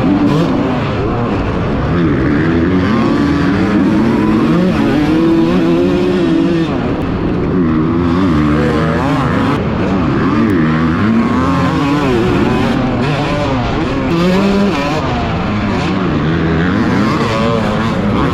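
Several small pit bike engines revving up and down together, pitches rising and falling and crossing one another as the bikes run around a dirt track.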